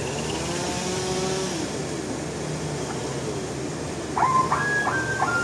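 Sawmill machinery running steadily, a low hum with a faint whine that slides up and down in pitch.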